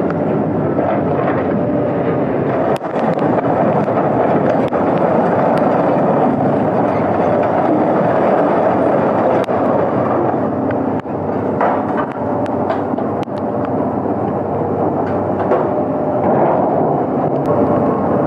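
Heavy machinery running steadily, with a few sharp knocks scattered through.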